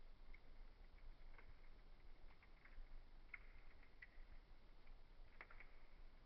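Wood fire in a fireplace crackling faintly: irregular small pops and snaps over a low hiss, the sharpest snap near the end.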